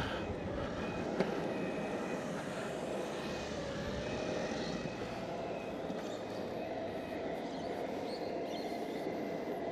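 Exway Flex Pro V3 electric skateboard rolling steadily over parking-lot asphalt: an even wheel and board noise with a faint steady whine running through it, and one small tick about a second in.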